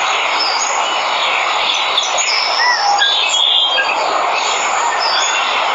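Steady rushing of a waterfall, with jungle birds giving several short chirps and whistles over it.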